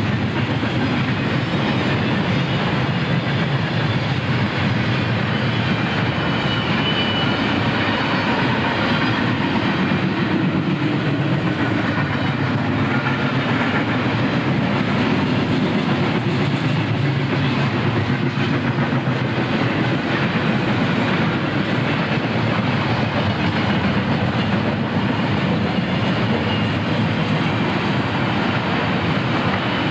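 Double-stack container freight train rolling past, the steel wheels of its well cars making a steady rolling noise on the rails.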